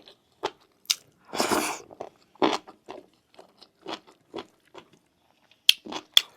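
Close-miked eating sounds: wet chewing and biting with scattered mouth clicks and smacks, a longer crunch about a second and a half in, and a few sharp clicks near the end.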